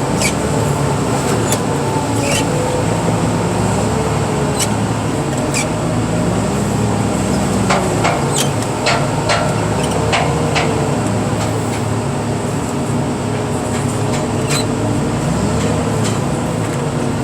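Heavy equipment's engine running steadily, its pitch rising and falling several times as the machine works, with scattered sharp clicks and knocks.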